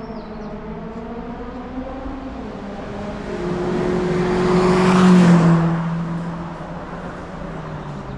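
A race car's engine under acceleration as it climbs past on the hill course. The engine grows louder, is loudest about five seconds in, then drops in pitch as it goes by and fades away.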